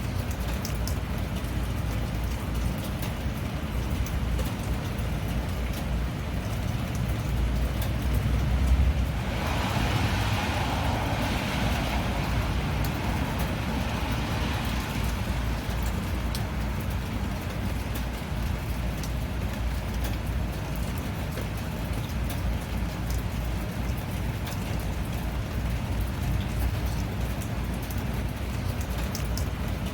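Steady rain falling, with a low rumble beneath it. About nine seconds in, a rushing hiss swells up and fades away over the next several seconds.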